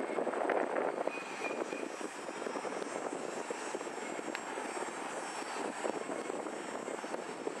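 A departing freight train, an EMD SD40-2 diesel locomotive hauling five salt cars, running with a steady rumble, slightly louder in the first second.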